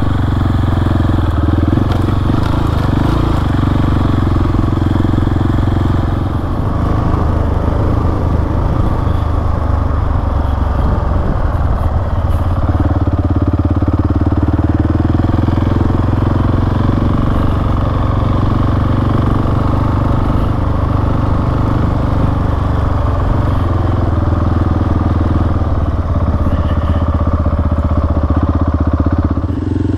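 Single-cylinder dual-sport motorcycle engine running steadily while riding, heard from on the bike, with a change in engine note about twelve seconds in.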